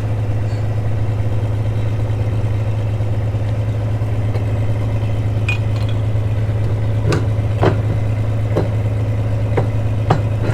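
An engine idling steadily with a low, even hum, and about half a dozen sharp knocks or clinks in the second half.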